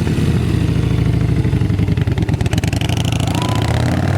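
Harley-Davidson V-twin motorcycle engine running steadily up close, with a low, rapid firing pulse.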